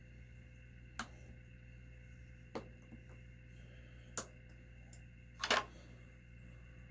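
Scattered light clicks and taps of small metal parts of a model nitro engine's clutch being handled and fitted: about five sharp ticks, the loudest a short rattle near the end.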